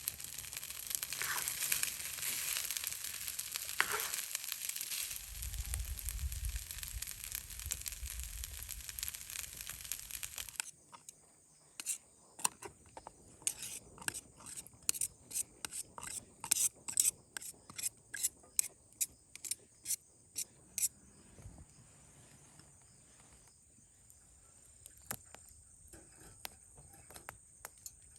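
Wood fire burning: a steady hiss and sizzle with a few snaps for the first ten seconds or so. Then, after a sudden change, a run of sharp crackles and pops, about two a second, which thins out to occasional ticks near the end.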